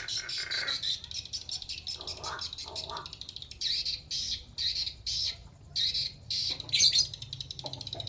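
Pet crow squawking in a run of quick, short calls, with one louder squawk about seven seconds in.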